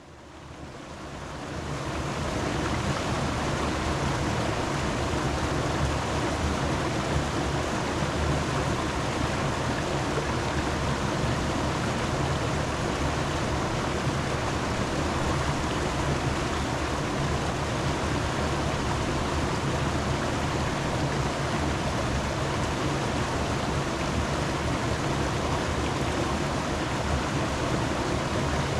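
Steady rush of running water, fading in over the first two seconds and then holding even.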